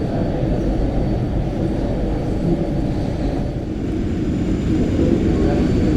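Steady low rumble inside an Airbus A380 cabin, growing slightly louder near the end.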